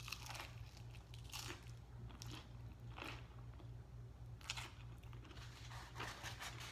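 Close-miked biting and chewing of a piece of tripleta sub sandwich with lettuce: a bite right at the start, then crisp, irregular crunches roughly once a second as it is chewed. A faint steady low hum runs underneath.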